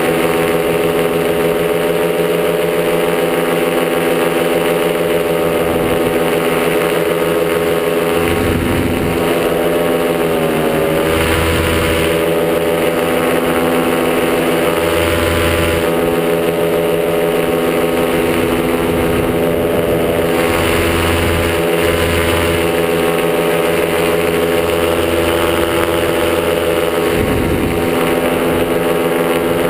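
Top80 single-cylinder two-stroke paramotor engine running steadily in flight, its pitch dipping briefly about ten seconds in as the throttle eases and then coming back up. Several short bursts of wind buffeting the microphone.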